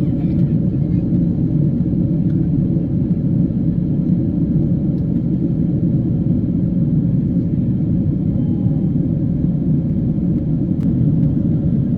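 Steady cabin drone of a Boeing 777-300 in cruise flight: engine and airflow noise heard from inside the passenger cabin, an even low rumble.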